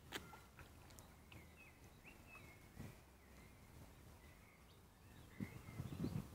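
Faint outdoor ambience with small birds chirping now and then, and a low rumble near the end.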